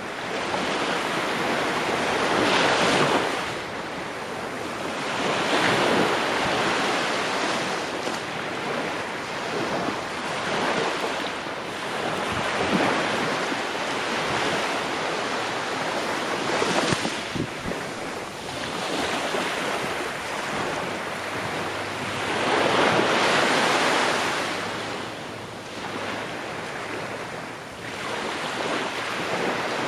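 Ocean waves breaking and washing up the shore, a steady rush of surf that swells and recedes every few seconds, with wind in the background.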